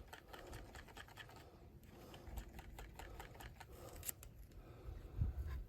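Faint, irregular scratching and small clicks of a paint roller working tacky fiberglass resin onto a drum shell.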